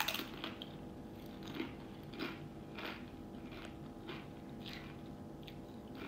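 Someone chewing crunchy Doritos tortilla chips: about ten separate crunches at an uneven pace, over a faint steady hum.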